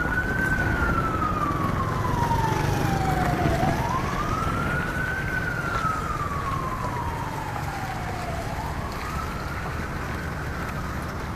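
Emergency vehicle siren in a slow wail: each cycle climbs quickly, then slides slowly down over about three seconds, three times, the last one fainter. A steady low rumble of traffic and street noise lies under it.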